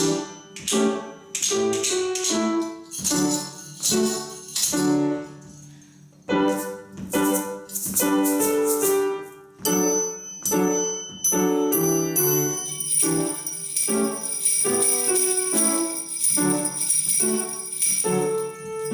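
A children's percussion orchestra playing a polka to a piano-like accompaniment in short rhythmic chords; about two-thirds of the way through, a continuous jingling of shaken bells joins in.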